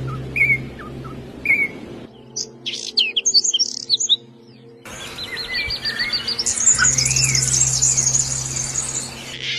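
Small songbirds chirping and trilling in short spliced takes. First come single short chirps about once a second, then a burst of rapid high chirps, then a fast, high, continuous trill from about five seconds in. Each change is abrupt.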